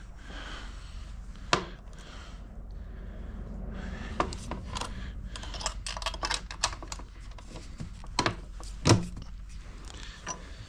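Hand tools and small metal parts clicking and clinking during assembly work: one click early, then a quick irregular run of light clicks and knocks, with a sharper knock near the end.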